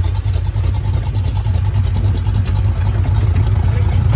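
Off-road vehicle's engine running steadily at low revs, a deep rumble with an even rapid pulse.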